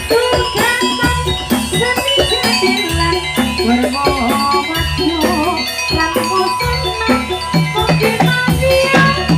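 Javanese gamelan music for a jathilan horse dance: a melody of struck metallophone notes over steady drum strokes and deep low beats, played loud.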